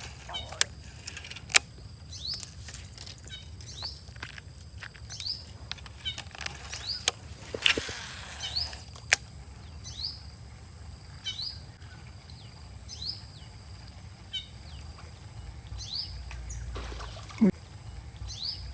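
A bird calling over and over, a short high rising chirp roughly once a second. Scattered sharp clicks, a brief rush of noise about eight seconds in, and a short falling sound near the end.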